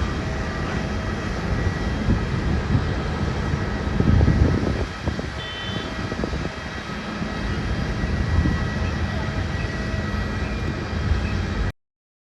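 Jet airliner engines running steadily during a takeoff, a continuous rushing noise with a faint steady whine, swelling into a louder low surge about four seconds in. The sound cuts off suddenly near the end.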